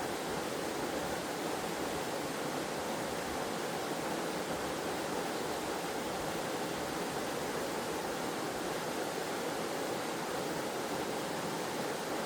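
Waterfall cascading: a steady, even rush of falling water with no breaks or changes.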